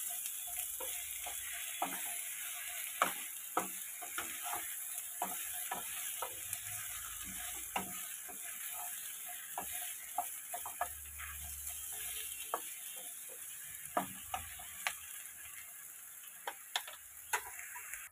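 Sliced ridge gourd sizzling in mustard oil in a nonstick kadai while a wooden spatula stirs and turns it, knocking and scraping against the pan in sharp, irregular clicks. The sizzle slowly fades.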